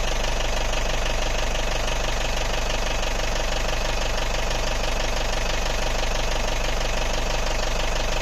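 Safari jeep's engine running steadily, with a rapid, even knocking of its firing strokes.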